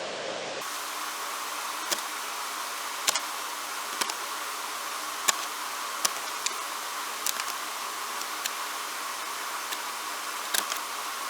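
Light, sharp clicks and taps from hand-tool work on wooden dowels, irregular and about one a second, over a steady hiss.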